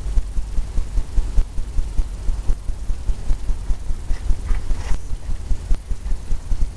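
Paintbrush dabbing paint onto a stretched canvas on an easel, giving a run of dull, low thumps about three to four a second.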